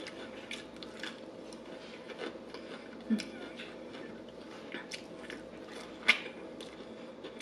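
Close-up biting and chewing of crispy fried chicken, a run of short crunches and mouth clicks with one sharper crunch about six seconds in.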